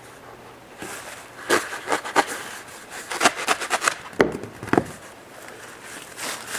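A run of irregular sharp clicks and knocks as foam pool noodles are handled and measured against the car roof for cutting.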